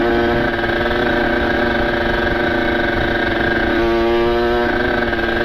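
Kawasaki Ninja RR 150cc two-stroke single with a ported cylinder and open aftermarket exhaust, running at steady revs while riding. The pitch dips slightly for a moment just before the end, then holds.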